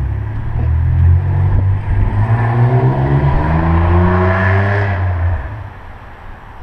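Electric winch motor running under load, pulling a scrap gas pump onto a trailer off a battery that is running low. Its hum rises steadily in pitch for about four seconds, then stops about five seconds in.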